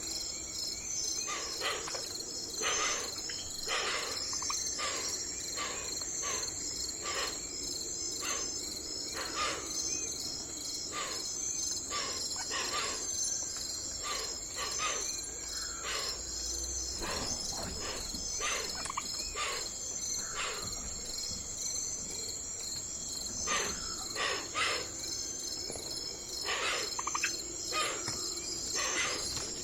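A steady, high-pitched insect chorus, like crickets, with frequent short chirps or clicks about every half second to a second.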